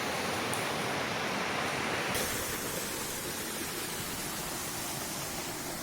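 Steady rush of a waterfall, an even hiss of falling water that turns a little softer and duller about two seconds in.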